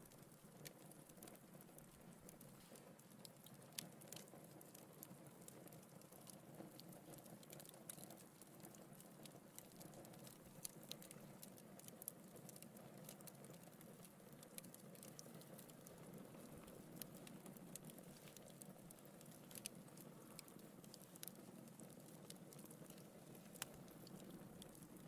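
Faint crackling of a wood fire in a fireplace: irregular small snaps and a few sharper pops over a steady low rush of burning.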